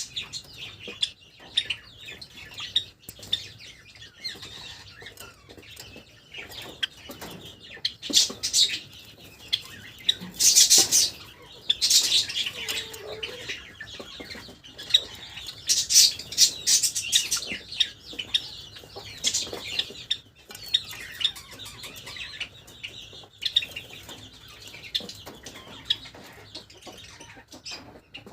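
Pet Java sparrows chirping steadily, with frequent short clicks and several loud flurries of wing flapping.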